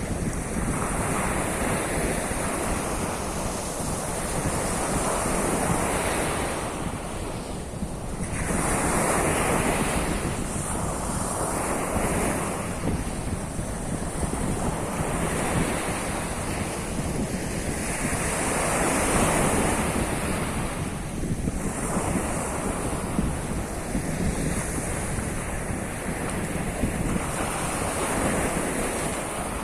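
Sea of Azov waves washing onto the shore, the surf swelling and easing every few seconds, with wind buffeting the microphone as a low rumble.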